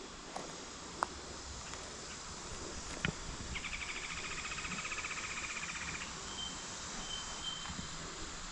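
Summer woodland ambience: a steady high insect hiss, with a rapid buzzing trill lasting about two and a half seconds from a few seconds in, followed by a few short high notes. Two sharp clicks, about one and three seconds in.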